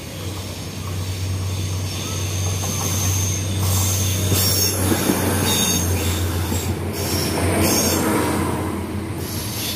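A passenger train running past at a level crossing, getting louder as it goes by, over a steady low hum. Several brief, high-pitched metallic squeals come from the wheels in the middle of the pass.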